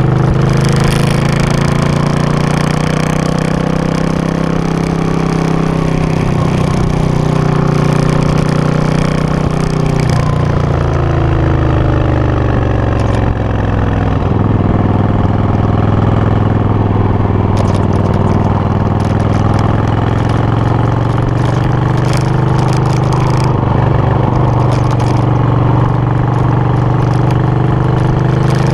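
Suzuki VS800 Intruder's V-twin engine idling steadily. Its pitch drops slightly about ten seconds in, then holds steady.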